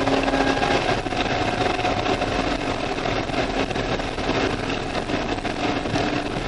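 C5 Corvette Z06's LS6 V8 running steadily at speed on track, heard from inside the cabin.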